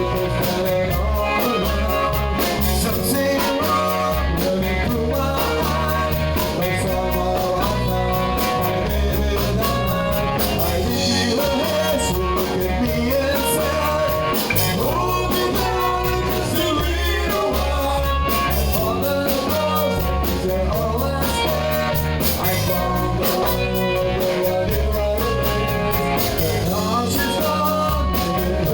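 A live band playing a rock-and-roll song: a singer over guitar, bass and drums keeping a steady beat.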